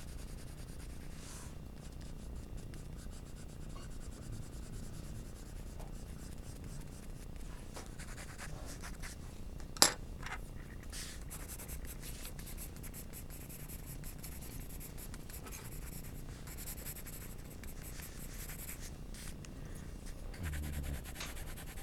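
Graphite pencil scratching and rubbing across drawing paper in irregular shading strokes. A single sharp click about ten seconds in.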